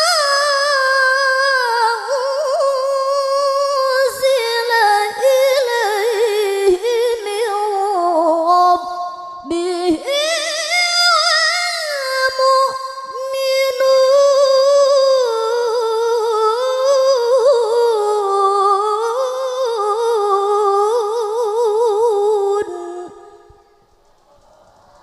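Woman's voice reciting the Quran in the melodic qiroah style: long held, ornamented phrases with wavering, trilled pitch and brief breaths between them, stopping about 23 seconds in.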